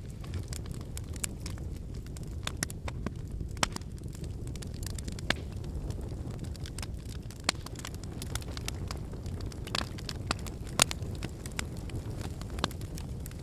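Wood campfire burning: a steady low rush of flames with irregular sharp crackles and pops from the burning logs, two louder pops about a third of the way in and near the end.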